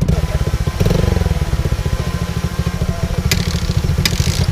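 A 110cc pit bike's small single-cylinder four-stroke engine idling steadily, with two sharp clicks near the end.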